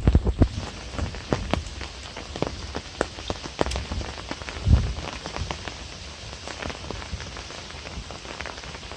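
Light rain falling, many separate drops ticking at an uneven rate over a soft steady hiss. There are a couple of low thumps, the loudest a little before the middle.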